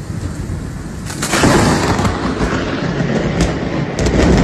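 Thunder rumbling over a steady rushing noise of the storm, the rumble swelling louder about a second in.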